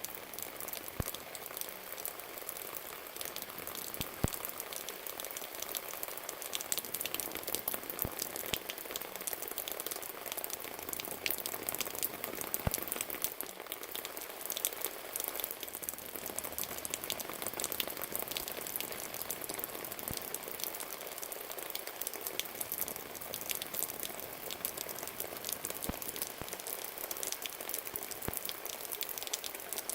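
Steady rain falling, with many separate drops ticking and pattering close by on a hard surface.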